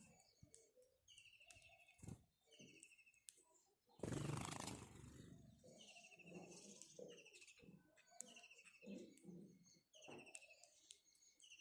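House sparrows chirping faintly: short, repeated chirps that fall in pitch, about one a second. About four seconds in comes a brief, louder rush of noise lasting about a second.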